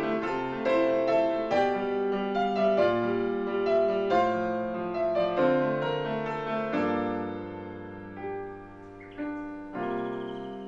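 Solo piano playing a gentle original piece of melody and chords; the phrase slows and dies away about two-thirds through, then new chords are struck near the end.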